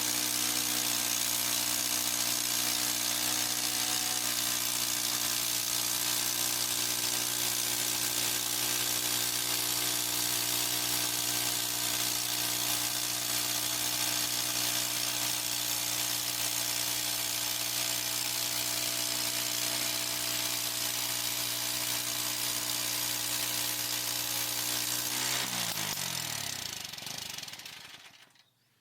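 Harbor Freight portable band sawmill's gasoline engine running steadily at speed. About 25 seconds in it is shut off, and its pitch falls as it winds down to a stop.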